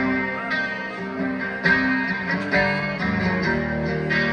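Live rock band playing a song's intro: electric guitar strumming chords through an amplifier, with deeper bass notes coming in about three seconds in.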